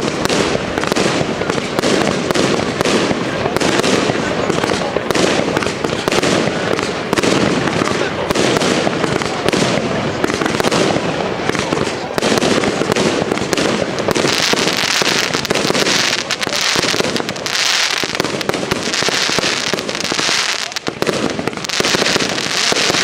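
Consumer fireworks bursting overhead in a rapid, unbroken series of bangs. About two-thirds of the way through, a brighter, hissier sound joins the bangs.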